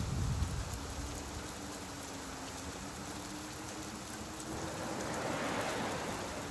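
Steady rain falling, with a low rumble dying away in the first second and a rush of noise swelling up about four and a half seconds in.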